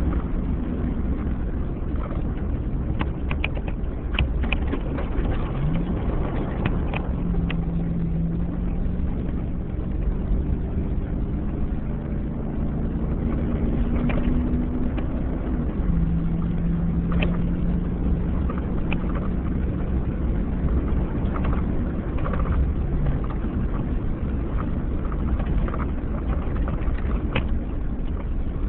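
2007 Chevy Avalanche's V8 running hard on a dirt and gravel road: a steady engine drone over heavy road rumble, the engine tone rising and dropping a few times, with scattered clicks of gravel.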